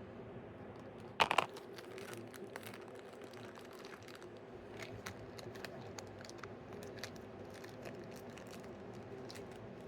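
Small plastic surprise bag being handled and torn open: faint crinkling and scattered small clicks, with one louder crackle about a second in.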